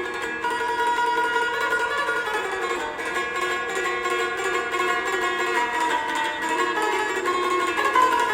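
A flute played for a tone check: a moving melody over a steady plucked-string accompaniment.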